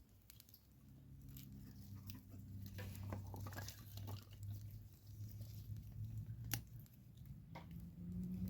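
Small birch-bark and kindling fire crackling as it catches, with scattered snaps and clicks over a steady low hum.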